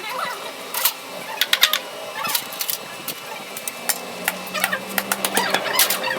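Irregular sharp knocks and clinks from hand-tool work on metal parts, about a dozen strikes, several ringing briefly.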